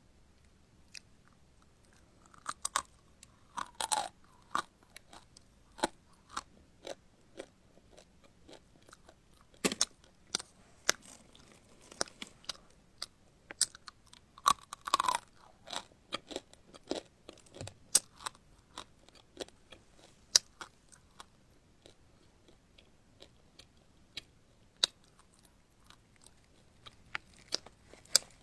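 Close-miked crunchy chewing and biting of crisp food, irregular sharp crunches coming in clusters with short pauses between.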